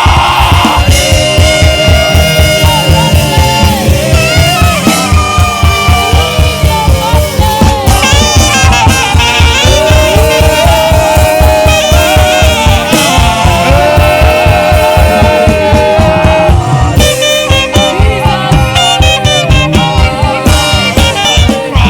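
Saxophone playing a sliding, bending melody over a live band with a steady, fast drum beat.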